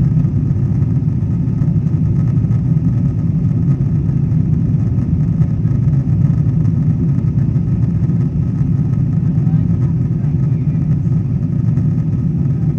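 Boeing 777-200ER cabin noise in economy during the climb after takeoff: the jet engines and rushing air making a steady, deep, even rumble.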